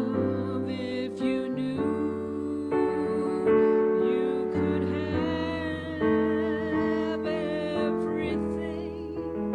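Slow, gentle keyboard music with a piano sound, an instrumental passage between sung verses, with sustained chords and notes.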